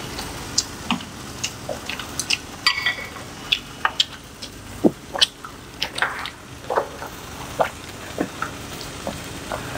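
Close-miked wet chewing: irregular squelchy smacks and mouth clicks of someone eating, over a faint steady hiss.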